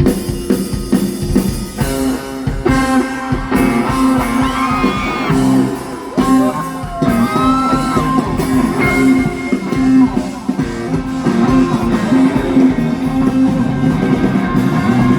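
Live rock band playing, with guitar to the fore.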